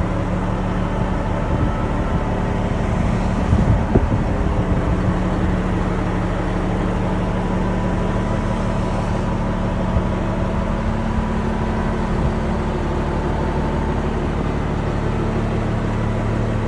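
Caterpillar 3406B inline-six diesel in a 1991 International Eagle dump truck running at a steady idle, with one brief knock about four seconds in.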